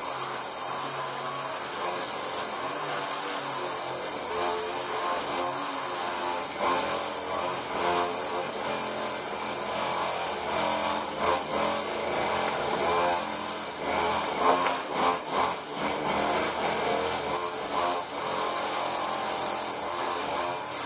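A power tool running steadily with a high whine, with background music.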